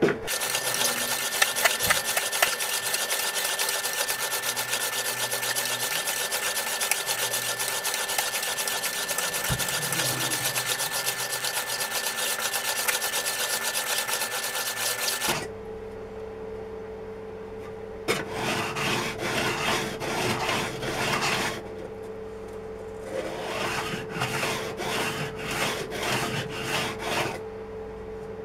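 Hardened hand-saw steel rubbed back and forth on a sharpening stone to grind a blade edge down flat. It is a fast, continuous rasping rub for about fifteen seconds and stops suddenly. After a short pause come two runs of separate strokes, about two a second.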